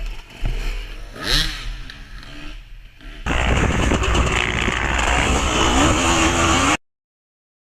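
Dirt bike engine running and revving, loud from about three seconds in after a few quieter knocks, then cutting off suddenly near the end.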